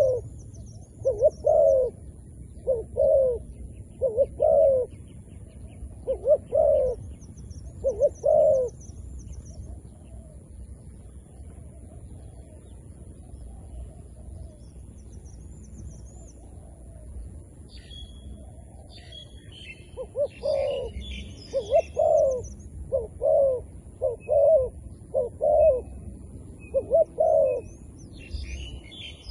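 Zebra doves cooing: short coos repeated about once a second, in two runs with a pause of about ten seconds between them. Faint high chirps of small birds come through above them.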